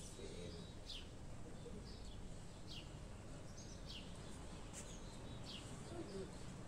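Small birds chirping: short, falling chirps about once a second over a steady low background noise.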